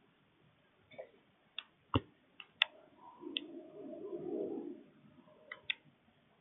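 Scattered sharp clicks and taps from birds feeding at a feeder, with a low, soft cooing sound about three seconds in that lasts nearly two seconds.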